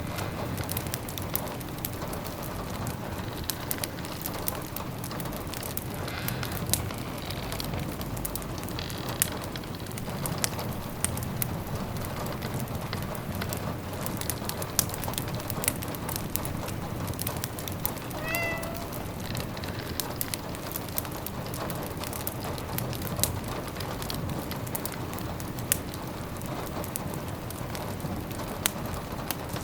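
Steady rain pattering on windows and a fireplace crackling, with many small sharp pops. A cat meows once, briefly, about eighteen seconds in.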